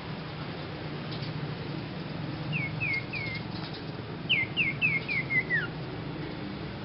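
A young sirpu songbird calling in two short bursts of quick down-slurred whistled notes: three notes about two seconds in, then a faster run of about six notes a second later, the last one sliding lower, over a steady low hum.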